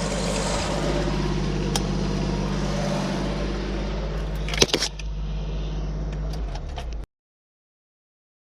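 An engine or motor running steadily with a low hum, with one sharp click about four and a half seconds in. The sound cuts off abruptly at about seven seconds into total silence.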